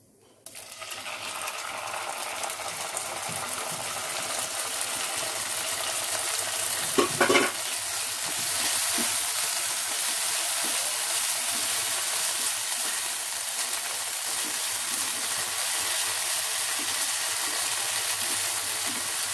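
Ginger-garlic-cashew paste dropped into hot mustard oil in a nonstick pan, sizzling suddenly about half a second in and then frying steadily while a silicone spatula stirs it. A brief clatter comes about seven seconds in.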